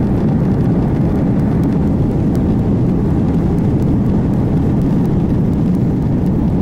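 Jet airliner engines, a loud, steady low rumble.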